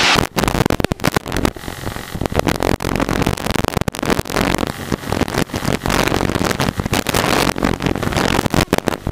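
In-flight cabin noise of a Cessna light aircraft: engine, propeller and airflow running loud and steady. The sound crackles and cuts in and out rapidly.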